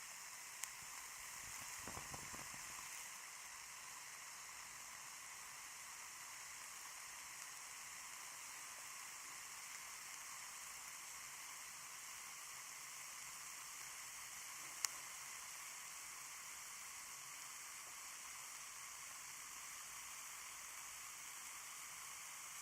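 Ear candles burning in both ears at once: a steady faint hiss with soft crackles, and one sharp click about two-thirds of the way through.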